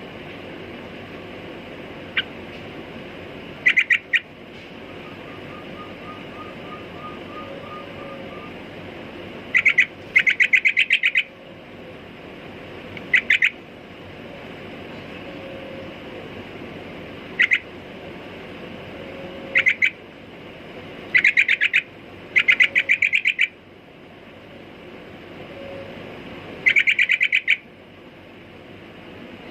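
Sooty-headed bulbul (trucukan) calling in about nine short bursts of rapid repeated notes, spaced a few seconds apart, over a steady background hiss.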